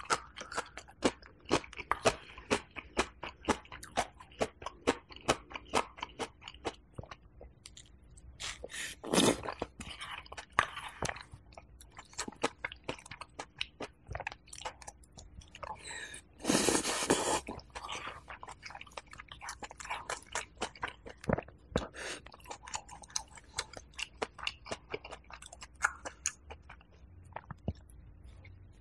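Close-miked eating sounds: a person chewing and crunching mouthfuls of chicken porridge with crispy rice crust, with many small wet mouth clicks. Two longer, louder sounds come about nine and seventeen seconds in.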